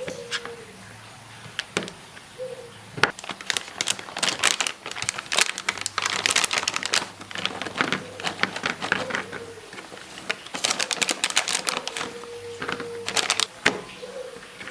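Kitchen utensil beating rapidly against a mixing bowl, a quick run of clicks and taps coming in bursts with short pauses between them.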